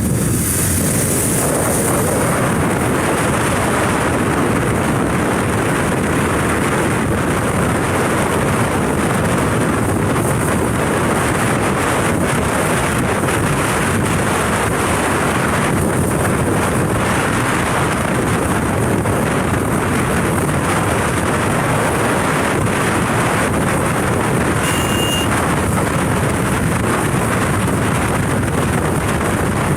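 Wind buffeting the microphone over the steady running of a motorcycle at riding speed. A brief high tone sounds once near the end.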